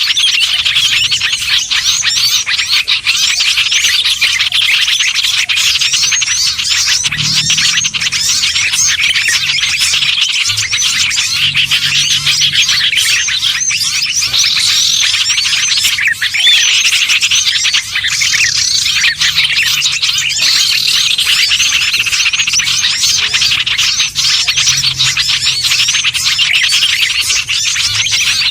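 A dense, unbroken chorus of many small songbirds chirping and twittering fast and high-pitched: a layered bird-lure recording of small birds such as bulbuls, ioras, sunbirds and prinias, played to attract wild birds.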